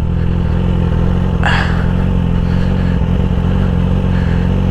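Yamaha R6 sport bike's inline-four engine idling steadily, its pitch unchanging.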